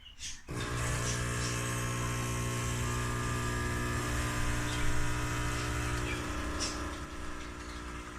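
CASABREWS espresso machine's pump humming steadily as it pushes water through. It starts about half a second in, and the hum drops and eases off around six seconds in.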